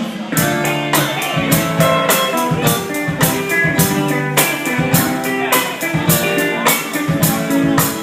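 Rock band playing an instrumental stretch between sung lines: guitar over a steady drum beat.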